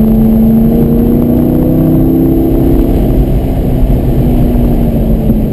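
2003 Corvette Z06's LS6 V8 pulling hard, heard from inside the cabin over a steady low rumble of road and wind noise. The engine note climbs slightly for the first half, then slowly eases off.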